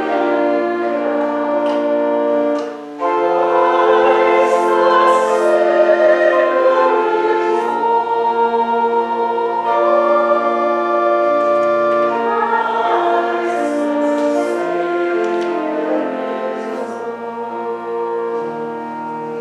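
Choir and congregation singing a hymn in held chords over organ accompaniment, with a brief break between phrases about three seconds in.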